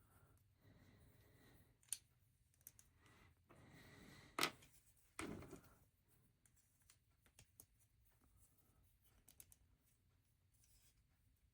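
Plastic LEGO pieces being handled and pressed together: faint scattered clicks and ticks, the loudest about four and a half seconds in, followed by a short rustle.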